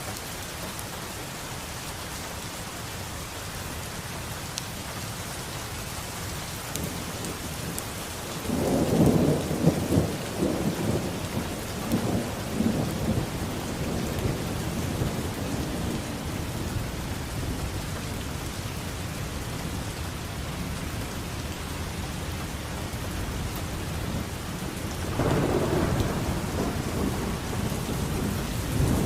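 Steady rain, with thunder rumbling twice: a loud low crack and roll beginning about a third of the way in that dies away over several seconds, and another rumble near the end.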